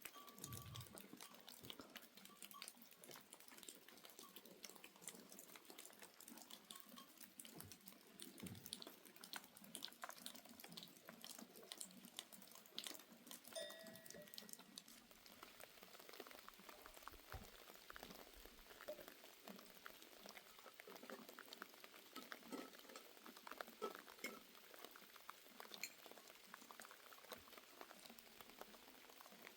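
Faint patter of rain with dense small drips and ticks.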